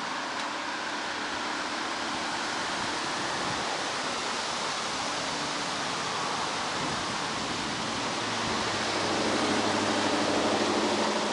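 Steady rushing noise of warm summer wind, with a low engine hum coming up and getting louder near the end.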